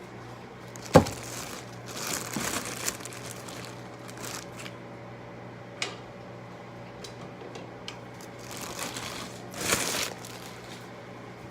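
Handling noises: a sharp knock about a second in, then rustling and crinkling, a single click, and another burst of rustling near the end, over a low steady hum.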